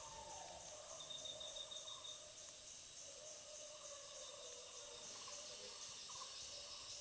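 Faint tropical-forest insect chorus: a steady high buzzing, with a short, very high chirp repeating about every 0.8 seconds and a brief steady tone joining in for about a second.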